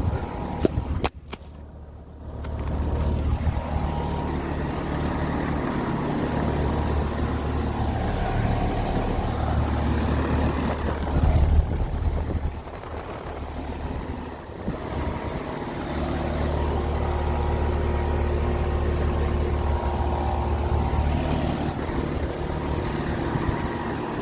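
Grandaire WCH4 heat pump running in cool mode: a steady low hum from its compressor and fan, with a brief drop in level about a second in.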